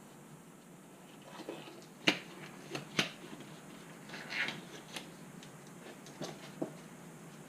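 Handling noises: a few separate sharp clicks and light knocks, the loudest about two and three seconds in, with a short rustle about four and a half seconds in.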